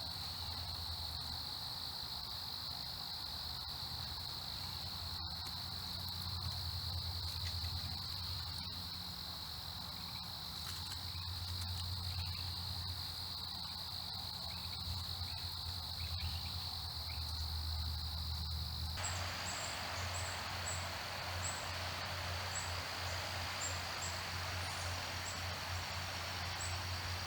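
A steady, high-pitched insect chorus over a low hum. About two-thirds of the way through, a hiss sets in, and a run of short, very high chirps appears.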